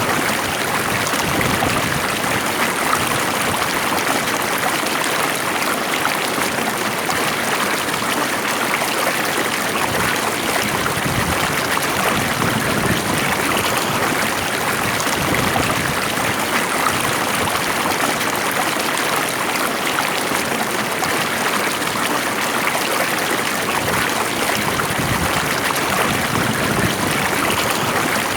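Stream water flowing steadily over rocks, an even rushing and trickling with no breaks.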